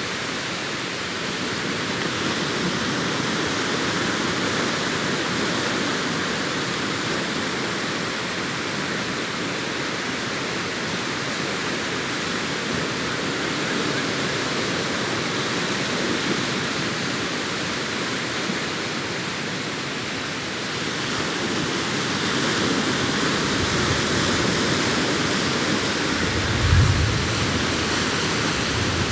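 Sea surf breaking and washing up a beach, a continuous rushing wash that swells somewhat louder in the last third. A brief low thump near the end.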